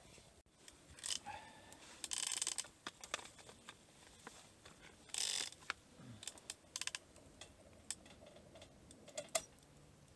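Small objects being handled: a string of light clicks and knocks, with short rustling or scraping bursts about a second in, at about two seconds and at about five seconds.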